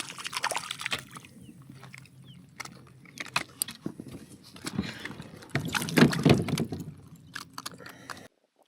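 Water sloshing around a kayak, with scattered knocks and splashes that are loudest about six seconds in; the sound cuts off suddenly near the end.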